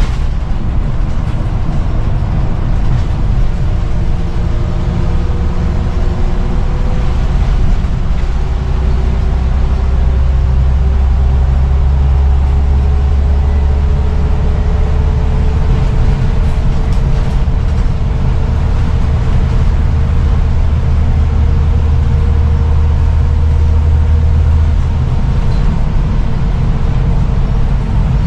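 Scania CN94UB bus with its five-cylinder diesel running under way. It makes a heavy low drone, and a whine rises slowly in pitch as the bus gathers speed.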